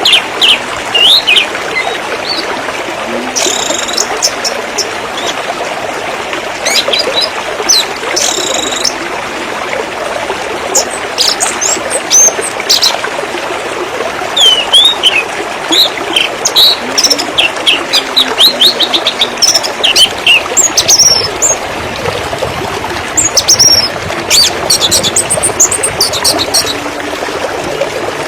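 Waterfall water running in a steady rush, with small birds chirping over it in short, quick calls throughout.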